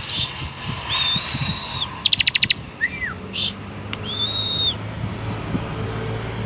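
Bar-winged prinia (ciblek) singing: long, flat, high whistled notes about a second in and again about four seconds in, with a fast rattling trill and short slurred chirps between them.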